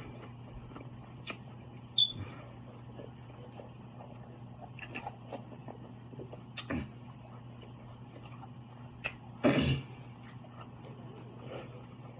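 A person eating seafood close to the microphone: scattered soft clicks and smacks of chewing and handling food, with a short louder noise about nine and a half seconds in, over a steady low hum.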